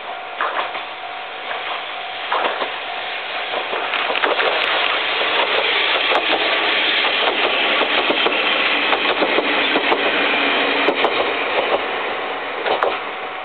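Two-car diesel railcar train passing close by: engines running and wheels clicking over rail joints. It grows louder to a peak around the middle and fades near the end.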